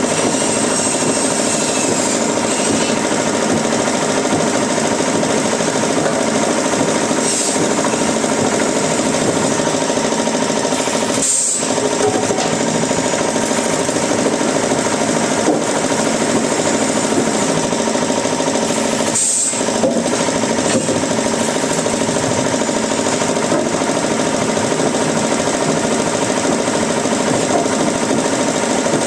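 Wood-processing machinery running steadily with a constant mechanical hum and hiss, broken by three short, sharp bursts.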